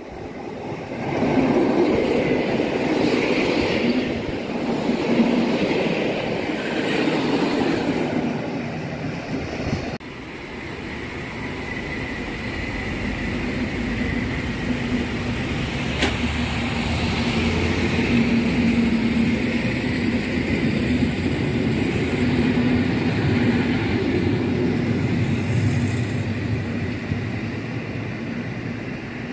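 Polregio EN57-type electric multiple units running through station platforms: wheels rumbling over the rails and a steady electric motor hum. The sound drops suddenly about ten seconds in, then builds again as the next train comes near.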